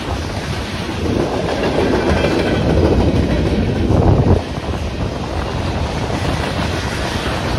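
Freight train cars, covered hoppers and tank cars, rolling steadily past over a grade crossing. The wheel noise swells for a few seconds and drops off sharply about four and a half seconds in.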